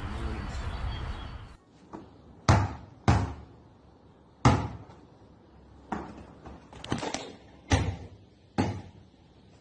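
Steady background noise that cuts off about a second and a half in, followed by about eight sharp knocks or bangs on a hard surface at uneven intervals.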